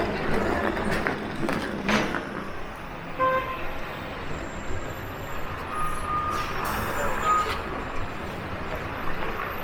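City street traffic: vehicles running past in a steady rumble, with a few short high beeps about three seconds in and again around six to seven seconds, and a couple of sharp knocks early on.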